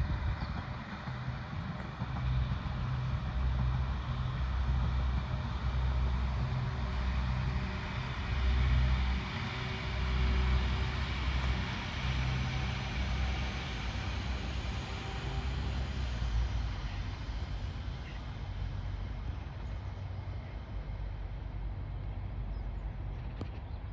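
Class 196 four-coach diesel multiple unit running by, its diesel engines giving a pulsing low rumble over a steady hiss of wheels on rail. The sound fades away from about 16 seconds in.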